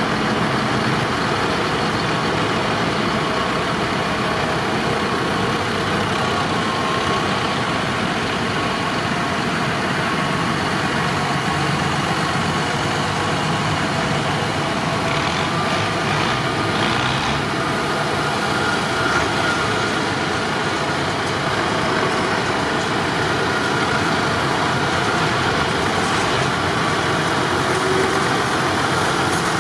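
Tractor engine running at a steady speed, a loud, even drone that holds the same level and pitch with no revving or stops.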